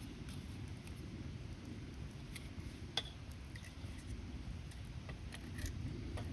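Wood fire burning, with scattered soft crackles and pops and one sharper pop about three seconds in, over a low steady rumble.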